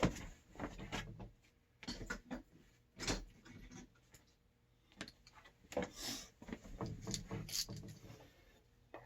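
Irregular clicks, knocks and short scraping noises from hands handling parts and tools on the water heater, a handful of separate sounds spread over several seconds.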